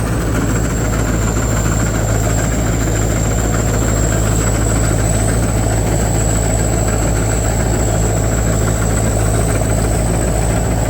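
Wichan Kanchang combine harvester running steadily: a constant heavy engine drone with a thin, steady high whine above it.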